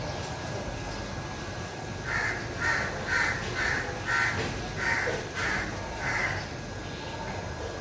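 A bird calling: a run of about eight short, rough calls, about two a second, starting about two seconds in.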